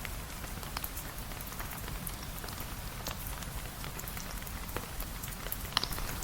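Steady rain, with scattered sharp ticks of single drops and a low rumble underneath.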